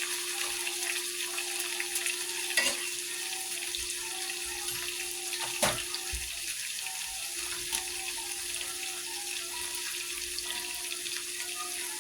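Ribeye steak sizzling steadily in a hot pan, a constant crackling hiss over a steady low hum. Two short knocks sound about three and six seconds in.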